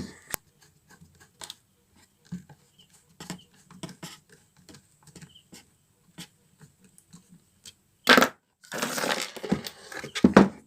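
Scattered light clicks and taps of a screwdriver and circuit board being handled as the replacement amplifier IC is screwed tight to its heatsink. About eight seconds in, a loud scraping rustle starts and lasts about two seconds.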